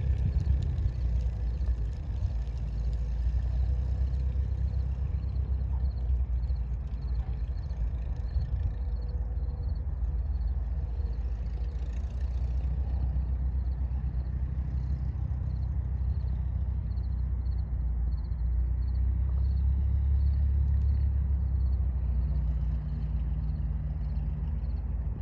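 Light aircraft's piston engine running steadily, a low hum with no change in pitch.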